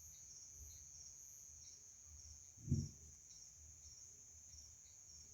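Crickets chirping in a steady, high, faint night chorus. A single short low thump about halfway through.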